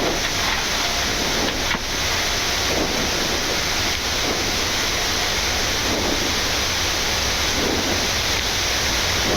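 Steady loud rushing noise of the Boeing 787-9's engines and airflow heard on the flight deck as thrust comes up for the takeoff roll.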